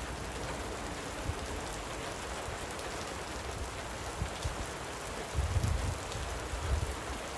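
Light rain falling, a steady hiss with scattered drop ticks. A few low rumbles come in during the second half.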